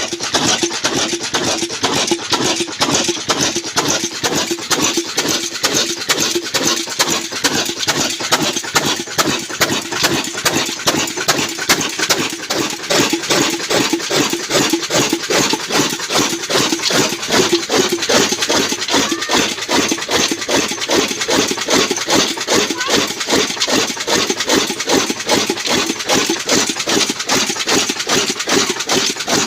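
Old Ruston Hornsby-type diesel oil engine running steadily, with a rapid, even clatter of strokes.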